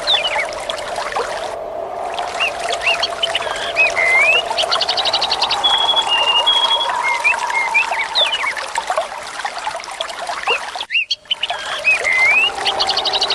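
Birds chirping and whistling, with short repeated notes and a fast trill, over steadily running, trickling water. The sound cuts out briefly about eleven seconds in.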